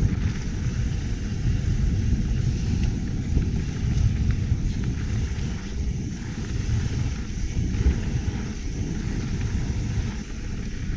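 Wind buffeting an action camera's microphone while riding a mountain bike: a loud, steady, low rumble.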